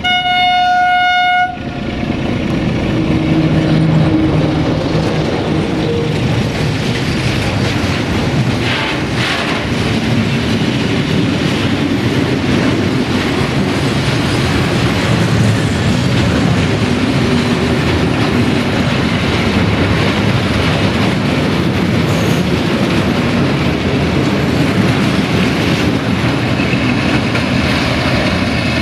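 An LDE2100 (060-DA) diesel-electric locomotive gives one horn blast about a second and a half long, then its diesel engine passes close by. A long string of tank wagons follows, rolling past with steady wheel clatter on the rails.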